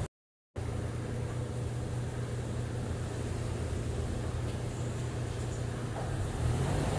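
A car engine idling steadily, a low even hum that cuts in after a half-second gap at the start.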